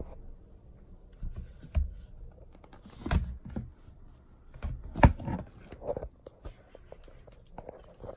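Close rustling, bumps and clicks of handling near the microphone, with sharper knocks about two, three and five seconds in.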